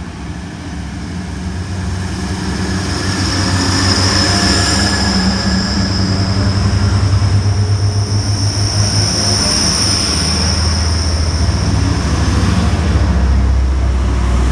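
Class 180 diesel multiple unit pulling out of the platform: its diesel engines' low hum grows louder over the first few seconds and then holds steady. A high-pitched squeal rides over it through the middle of the departure.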